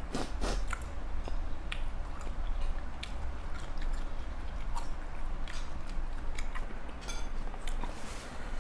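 Close-up eating sounds: chewing and biting on spicy seafood papaya salad, with irregular wet mouth clicks and smacks.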